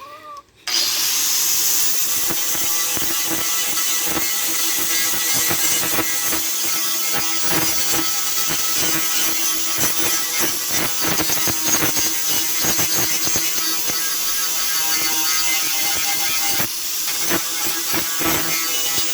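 Electric grinder grinding the steel of an old saw blade to shape a knife, the motor kicking in under a second in and running steadily with a harsh hiss of metal being ground, a little quieter near the end.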